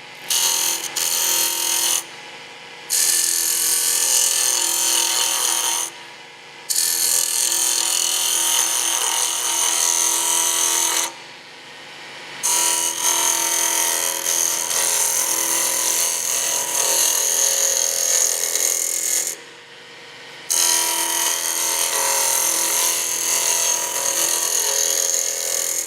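A turning chisel shearing a spinning wooden spindle on a lathe, taking light finishing cuts to clean up the surface after roughing it round. It runs in several long passes with brief pauses between them, where only the lathe's steady motor hum is left.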